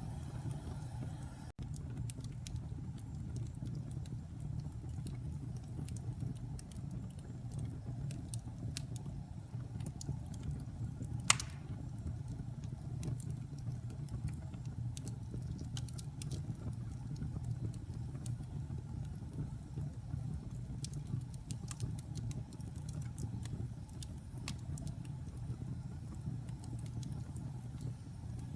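Wood fire burning in a fireplace: a steady low rumble of flames with scattered small crackles, and one loud pop about eleven seconds in.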